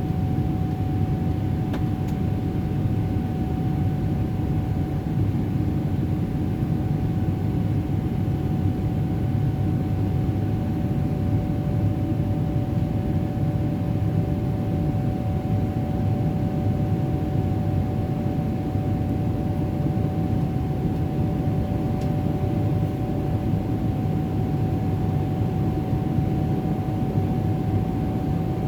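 Steady cabin drone of a Boeing 777-300ER climbing out, its GE90 engines and the airflow making a low rumble with a thin steady whine over it. A second, lower whine joins about a third of the way in and fades near the end.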